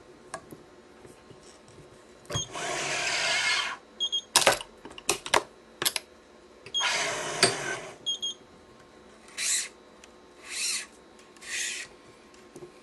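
Yonex ES5 Pro electronic stringing machine's tension head running twice for a second or so each time, pulling a cross string to tension. Between the two runs come several sharp clicks from the machine and its clamps, and near the end three short rasping sounds.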